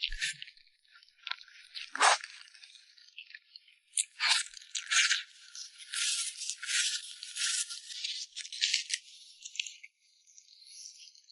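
Close-miked crinkling and clicking handling sounds, with a few sharp clicks near the start and a dense stretch of crackle through the middle.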